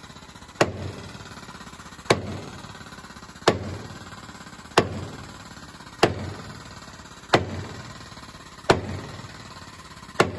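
Sledgehammer blows on steel, eight strikes at an even pace of about one every 1.3 seconds, each ringing briefly, over a steady mechanical hum. The hammering helps drive out a seized truck spring bolt held under hydraulic press pressure.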